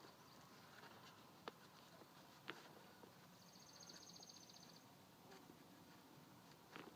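Near silence, with a few faint clicks and, about three seconds in, a faint high buzzing trill lasting over a second.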